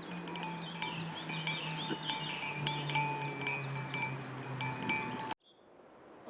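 Metallic clinking and ringing like small bells, many overlapping strikes over a low steady hum that slowly drops in pitch, cutting off abruptly about five seconds in.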